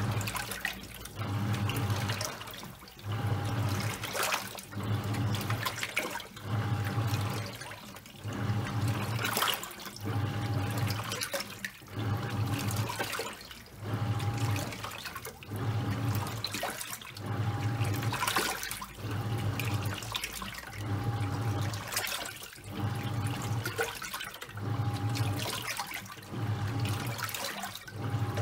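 Top-loading washing machine agitating a load of towels: the motor hums in short, even runs a little over once a second as the pulsator swings back and forth, with water and wet towels sloshing throughout.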